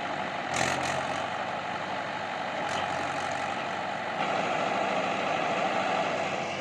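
Mahindra 575 DI tractor's diesel engine running steadily, growing louder about four seconds in, with a few short clicks near the start.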